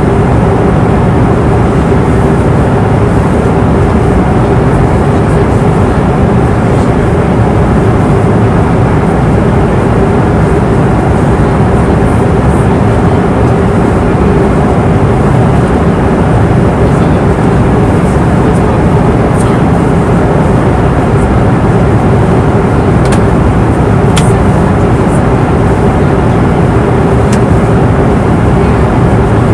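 Airliner cabin noise in flight: the steady roar of engines and airflow, with a constant hum.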